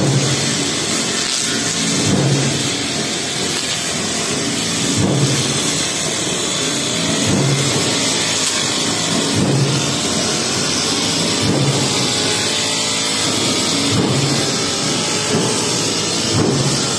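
Honda four-stroke brush cutter with a metal blade running under load, its engine swelling about every two seconds as the blade sweeps through tall grass.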